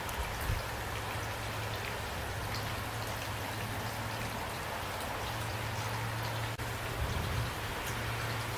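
Steady rain falling, individual drops ticking over an even hiss, with a low steady hum underneath. There are brief low thumps about half a second in and near the end.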